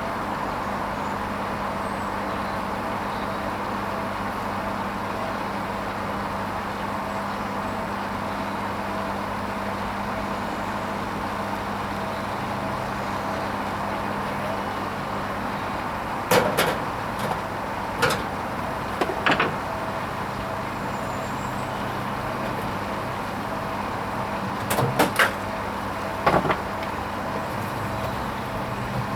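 Hoover Vision HVP16 washing machine running on its silks programme: a steady hum with a faint regular pulsing, broken by a handful of sharp clicks and clunks in the second half.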